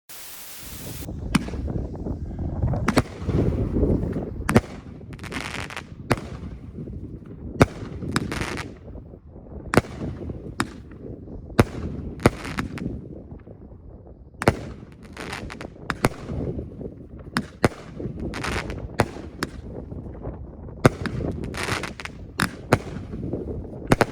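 Winda Dragon Duel fireworks cake firing its shots in a steady string, roughly one sharp report a second. Between the reports come hissing fizz and crackle from its gold and silver swimming stars, red strobes and crackling stars. A short hiss opens the sequence.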